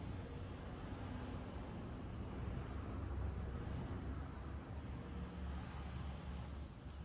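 Wood fire burning in a rusted metal can: a steady low rushing of the flames, with a faint crackle about five seconds in.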